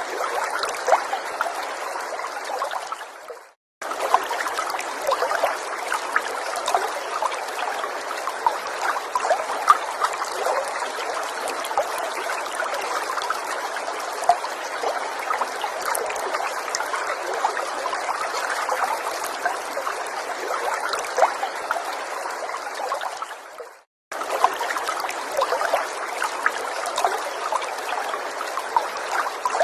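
Small forest stream trickling and babbling steadily, with many small splashes of water over stones. The sound fades out to silence briefly about three and a half seconds in and again near twenty-four seconds, then starts again at once.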